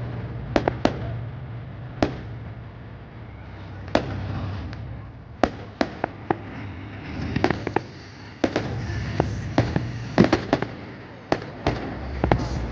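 Fireworks going off: irregular sharp bangs and cracks, some coming in quick clusters, over a steady low rumble.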